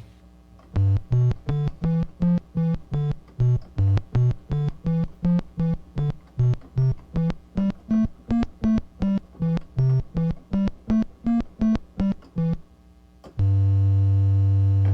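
Macintosh Plus four-tone synthesizer playing a melody of short, evenly spaced notes, about three a second, each starting with a click, then one long held low note near the end.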